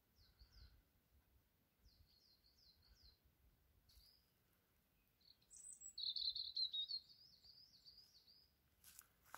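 A songbird singing in short high chirping phrases, then a longer, louder warbled phrase about two-thirds of the way through, over quiet woodland background. A brief rustling noise comes near the end.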